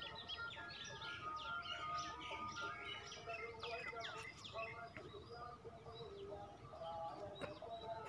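Birds chirping: a busy run of short calls and quick falling whistles through the first half, thinning out later. Under them runs a soft background melody.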